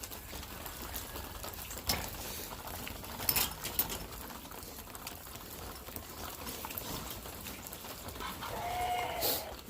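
Farm animals at close range: a few sharp knocks or clatters early on, then one short pitched animal call near the end.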